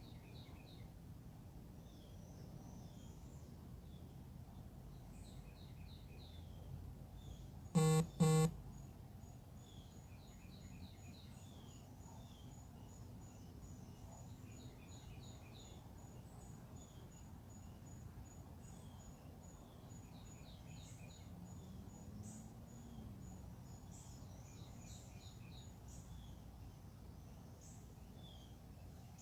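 Backyard birds chirping and calling over a quiet outdoor background, with a steady, high-pitched ticking series running through most of it. About eight seconds in there are two short, loud honks in quick succession.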